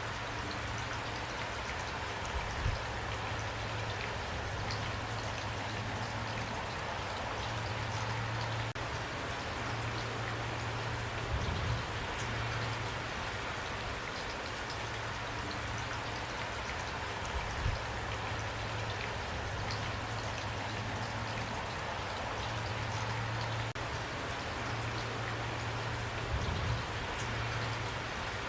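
Steady rain, with individual drops pattering on a surface. A low rumble underneath swells and fades, and there are a few brief low knocks, about four in all.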